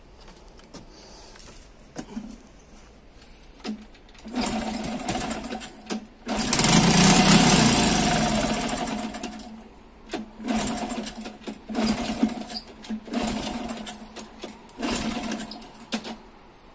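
Old scrap motorcycle engine firing on sprayed brake cleaner: it catches in short bursts of a second or two and dies between them, several times. The longest and loudest run comes near the middle and lasts about three seconds.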